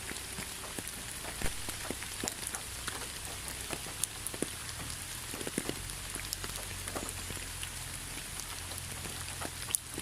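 Rain falling: a steady patter with individual drops landing as sharp ticks scattered irregularly through it.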